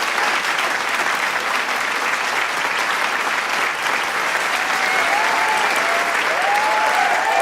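Large crowd applauding with dense, steady clapping, with a few voices starting to cheer and shout about five seconds in.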